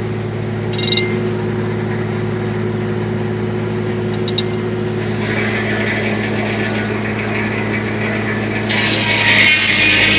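Tractor engine driving a homemade circular sawmill runs steadily, with short high squeaks about a second in and again around four seconds. Near the end the saw blade bites into the log, and the cutting noise suddenly grows louder.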